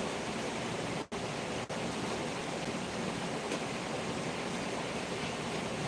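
Steady hiss of heavy rain, with two very short dropouts about a second in.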